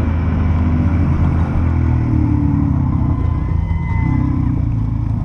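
Single-cylinder four-stroke engine of a Honda CRF450L dirt bike running, its low note shifting a little in pitch with the throttle.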